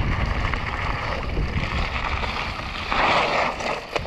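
Mountain bike descending a rough trail at speed, heard from an on-board camera: wind rushing over the microphone and steady tyre noise, with scattered knocks from the bike. A short, louder hiss comes about three seconds in.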